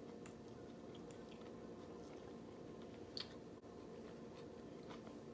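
A person quietly chewing a mouthful of cauliflower fried rice, over a steady low room hum, with a faint click about three seconds in.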